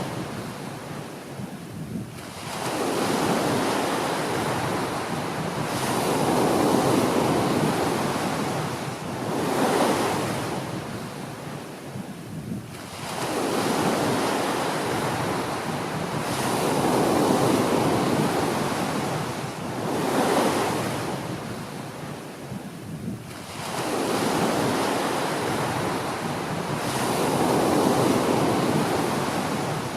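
Small ocean waves breaking and washing up on a beach. The surf swells and eases in a slow cycle of about ten seconds, with a short lull between sets.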